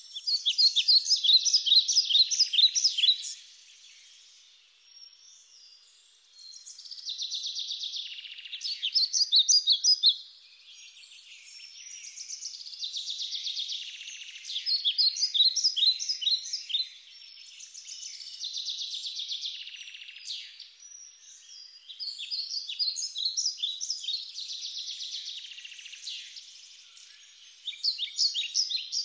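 Wild birds calling in bouts of rapid, high-pitched repeated notes, each bout lasting a few seconds, with quieter stretches between them.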